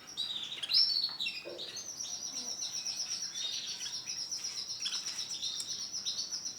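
Male domestic canary singing: a few varied high chirps, then from about two seconds in a long, fast, high-pitched trill.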